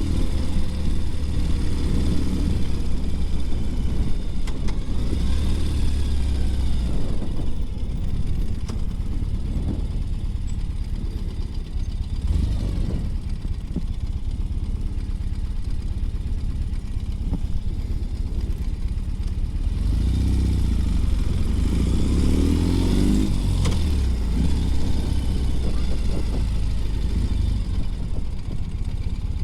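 2020 Ural Gear Up sidecar motorcycle's flat-twin engine running under way, its revs rising and falling through the gears, strongest in the first few seconds and again about two-thirds of the way through.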